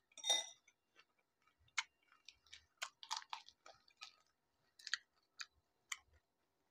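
Crisp pani puri shells crunching as they are bitten and chewed: scattered short crackles. About a third of a second in, a metal spoon clinks against the glass bowl of pani.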